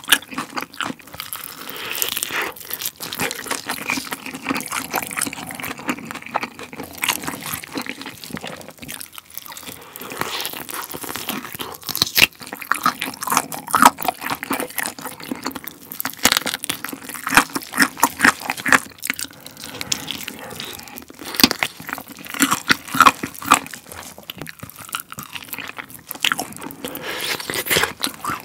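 Close-up biting and chewing of a sauced fried chicken drumstick (Mexicana carbonara buldak chicken), with many crisp crunches of the coating, bite after bite.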